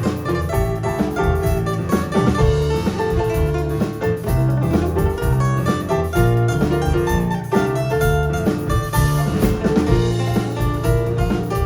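Live band playing a Spanish-style song, with guitar over drum kit.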